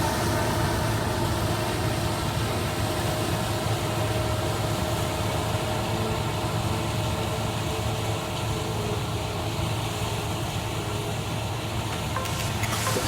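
Heavy farm machinery running steadily at harvest: a diesel engine's even hum with steady whining tones from the machine's drives over a noisy rush.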